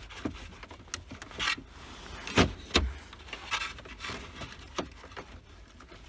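Scattered clicks, knocks and rattles of an ignition lock cylinder assembly being worked loose and pulled out from behind a car's dash, with two louder knocks a couple of seconds in.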